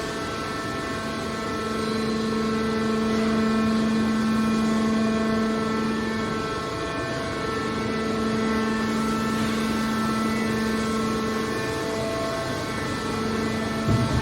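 Hydraulic scrap metal baler running, its pump and motor giving a steady pitched hum with a whine above it, with a short knock right at the end.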